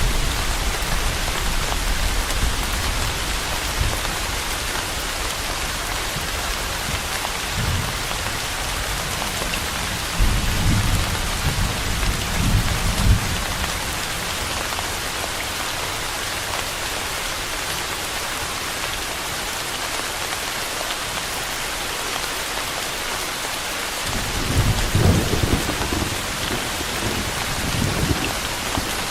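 Steady rain pouring, a dense even hiss, with low rolling rumbles of thunder at the start, about a third of the way in and again near the end.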